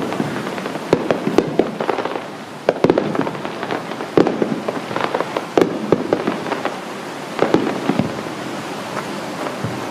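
Aerial fireworks going off in a quick, irregular volley of booms and sharp cracks, each with a short echoing tail. The bursts thin out in the last couple of seconds.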